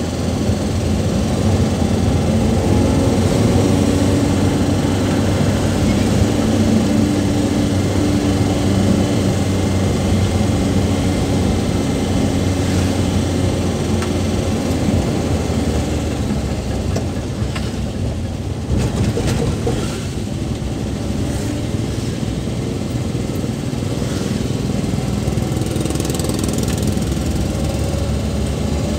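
Suzuki Carry's engine running as it drives along, heard from inside the cab, with a steady hum and road noise whose pitch shifts a little with speed.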